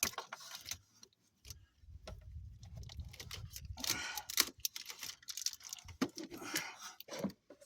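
Scattered light clicks and metallic jingling rattles of hands pulling wires and handling metal parts in a truck's engine bay, with a low rumble partway through.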